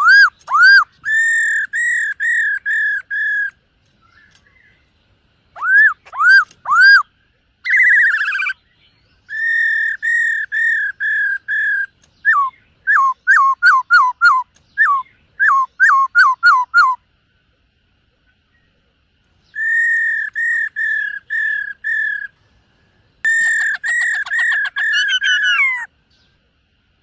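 Black-throated laughingthrush singing: loud, clear whistled phrases, each a run of five to eight repeated notes with short pauses between runs, including a series of quick downward-slurred notes midway.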